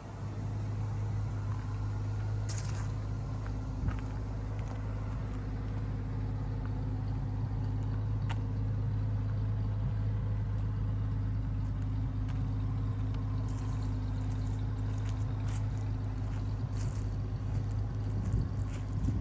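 1976 Chevrolet Blazer's engine idling steadily, with no revving.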